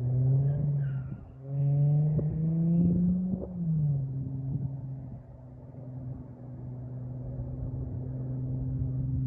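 Holden VY Commodore's 3.8 L Ecotec V6 through Redback headers, a high-flow cat, a middle muffler and a straight tailpipe, blipped twice: a short held rev, then a second one held a couple of seconds and rising slightly, before it drops about a third of the way in to a steady lower note that slowly grows louder.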